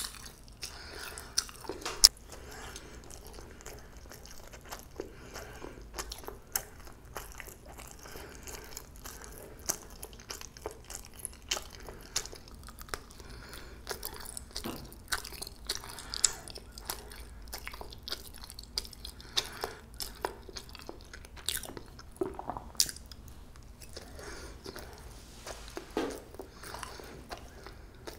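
Close-miked chewing of soft jeungpyeon, Korean fermented rice cake, with many short sharp mouth clicks throughout.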